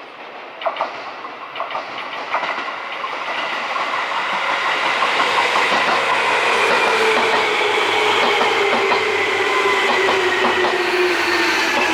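A Seibu 2000 series electric train approaching. Its wheels clack over rail joints, growing louder, then from about halfway a whine falls steadily in pitch as the train slows.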